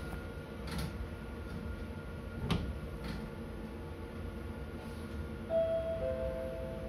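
Meitetsu 4000 series electric train heard from the cab: a steady low running rumble, a single sharp click about two and a half seconds in, and near the end a two-note electronic chime, a higher note dropping to a lower one.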